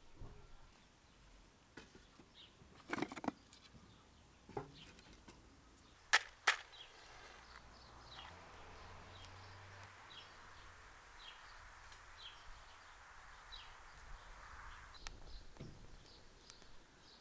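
A small bird chirping over and over in the background, short high chirps, with a few sharp knocks in the first half and a soft hiss for several seconds in the middle.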